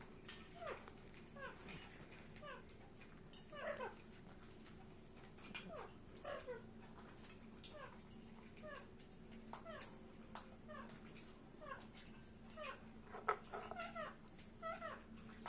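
Pet parakeet calling with a string of short chirps that drop quickly in pitch, coming irregularly about once or twice a second, over a faint steady hum.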